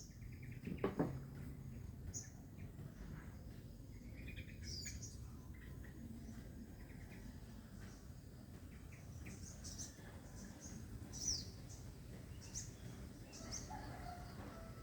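Wild forest birds chirping, with short high calls scattered throughout and one louder low thump about a second in.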